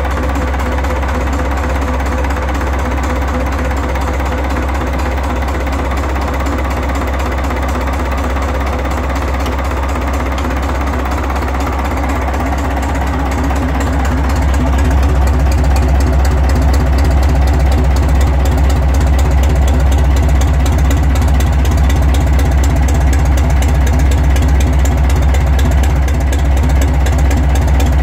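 Ford Dover 2722E marine diesel engine, marinised by Lister Petter, running steadily; about halfway through it gets louder and stays at the higher level.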